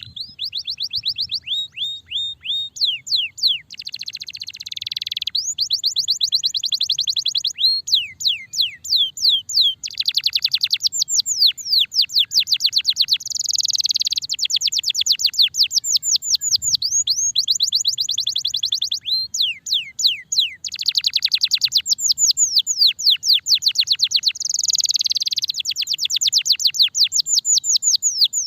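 Starblue domestic canary singing a long, unbroken song. It runs phrase after phrase of very fast trills of repeated falling notes, several seconds each, linked by short buzzy rolls.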